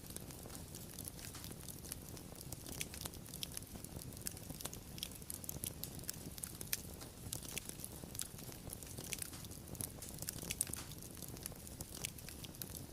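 Wood fire crackling: many small irregular pops and snaps over a low, soft steady rush of burning.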